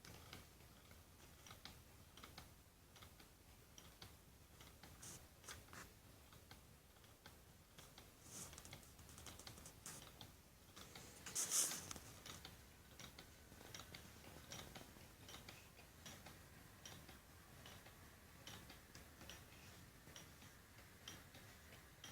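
Faint ticking of a small homemade low-temperature Stirling engine, irregular at first and settling into a regular tick in the second half, with one louder brief rustle about halfway through.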